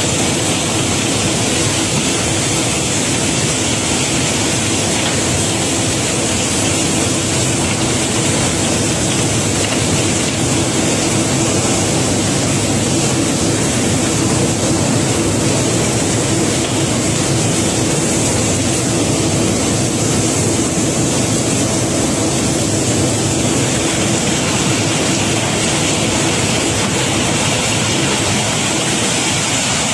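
Cobblestones pouring in a continuous, dense stream as a barge's rock cargo is unloaded, with a steady machine hum underneath.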